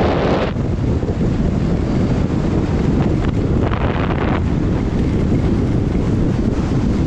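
Steady wind buffeting on the microphone of a camera carried by a skier moving fast downhill, with two short patches of brighter hiss from skis scraping the snow, one right at the start and one about four seconds in.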